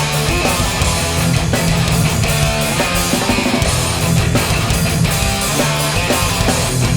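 Hardcore punk band playing live: distorted electric guitars, bass and drums in a fast, loud instrumental passage.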